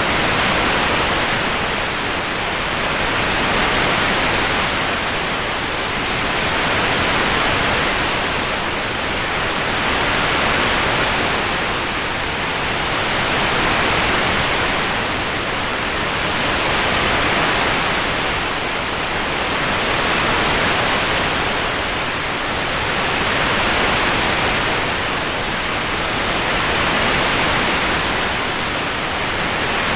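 Rain-sound background track: a steady, even hiss of rain-like noise that swells and eases gently about every three seconds.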